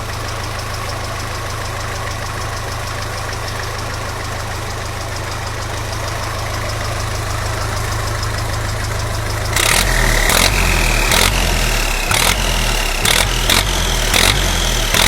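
Belarus tractor's turbocharged diesel engine idling steadily. From about ten seconds in, the engine note strengthens, a high turbo whistle rises, and a series of sharp knocks sounds.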